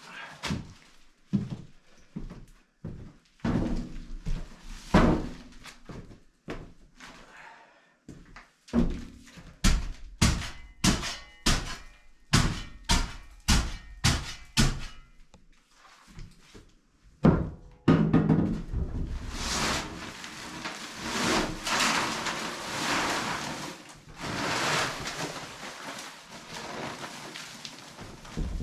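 A hammer striking in quick runs of sharp blows, about two a second, followed by a stretch of rhythmic rasping strokes.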